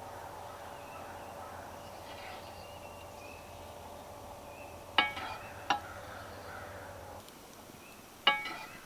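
Hard metal or glass clinks of cookware: two sharp strikes about a second apart midway, and another near the end, each ringing briefly. Under them runs a steady low hum that stops a couple of seconds before the last clink.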